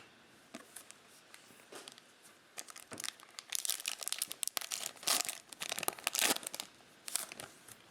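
A trading card pack wrapper being torn open and crinkled by hand, a dense run of crackling that is heaviest in the middle and trails off in a few short crinkles near the end.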